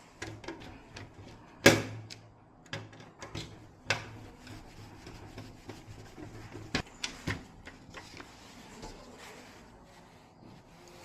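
Irregular clicks and knocks of hard objects being handled and set down, with one loud knock about two seconds in and sharper clicks near the middle.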